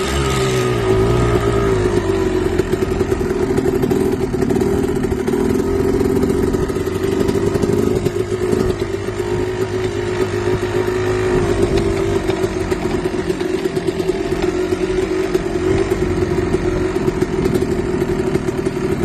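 Engine running steadily after a cold start. Its speed drops a little in the first second, then holds even.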